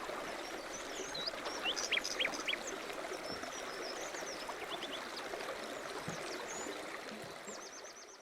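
Small songbirds chirping and trilling over a steady rushing noise like running water. A fast trill comes near the end, and it all fades out.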